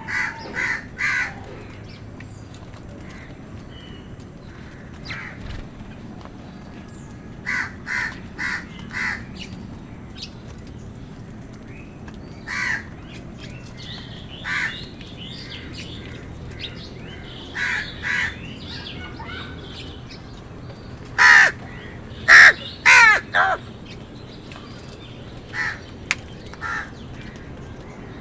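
Crows cawing: short harsh caws in groups of one to three, a few seconds apart, with the loudest run of four or five caws about three-quarters of the way through, over a low steady background noise.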